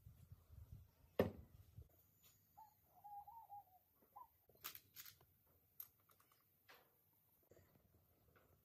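Near silence with faint scattered clicks and knocks, a sharper knock about a second in, and a brief wavering squeak near the middle.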